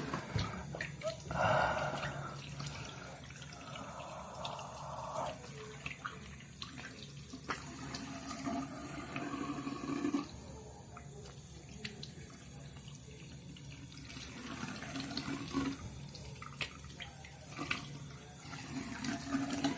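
Bathroom sink tap running, with water splashing and dripping as someone washes their face; the flow is heavier in the first few seconds, then lighter with scattered splashes.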